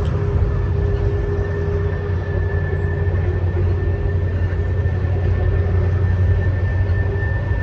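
EMD SD40-2 diesel locomotive's 16-cylinder two-stroke turbocharged engine running hard under a heavy train's load, a steady deep drone with a steady high whine on top.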